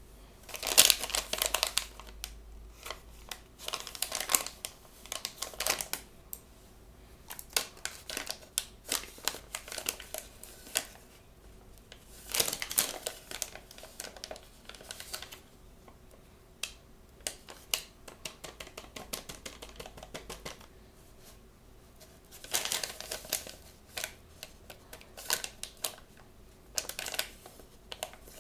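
Blind-bag packaging crinkling and rustling as it is handled and opened, in irregular bursts with small clicks and taps in between.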